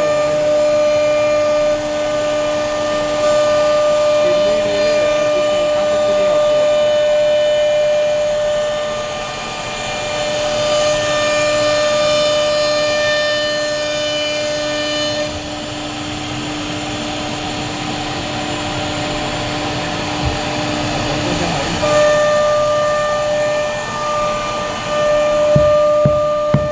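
CNC router spindle running with a steady high whine. The whine changes character about halfway through and again near the end.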